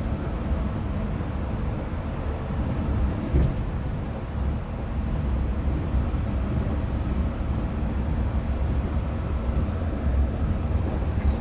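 Yurikamome rubber-tyred automated guideway train running, a steady low rumble heard from inside the car, with a short knock about three seconds in and another near the end.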